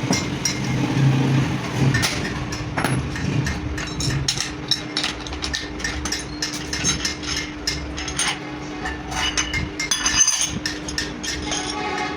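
Repeated metal-on-metal tapping and clinking of hand tools on clutch plate parts: many short, irregular knocks, some with a ringing tail, over a steady low hum.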